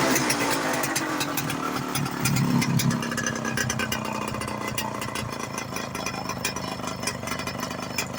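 Motorcycle engine fitted with a PWK28 carburettor, its revs falling away in the first couple of seconds and then settling to a steady idle.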